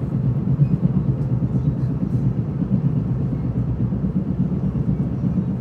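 Steady low rumble of an FPK10600-series passenger coach running on the rails, heard from inside the carriage.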